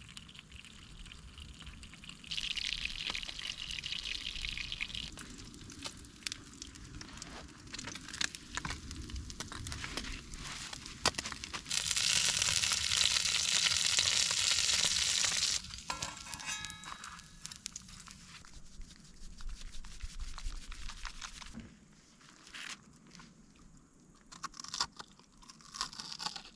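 Food sizzling in a pan, with small clicks and knocks throughout. The hissing swells a few seconds in, then comes on loudest for a few seconds about halfway through.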